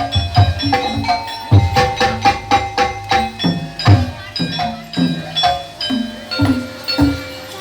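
Live Javanese gamelan music accompanying a kuda lumping dance: a fast, busy pattern of ringing struck metal notes over hand-drum strokes, some of the drum strokes sliding down in pitch.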